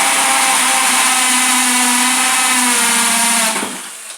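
Hammer drill running steadily with its hammer action engaged, drilling an entrance hole through a plastic bucket: a loud, horrible noise. It winds down and stops shortly before the end.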